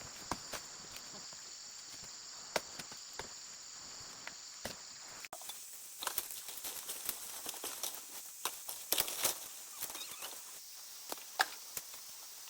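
Insects chirring steadily in a high, even band, with scattered taps. About five seconds in, the sound changes abruptly and the insects drop out, leaving a run of irregular clicks and knocks over a faint hiss.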